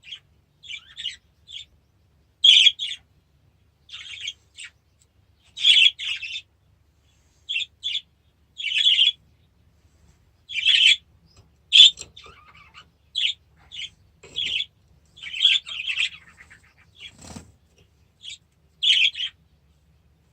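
Caged budgerigars and canaries chirping in short, separate calls, scattered irregularly, some louder than others, with a single soft knock about seventeen seconds in.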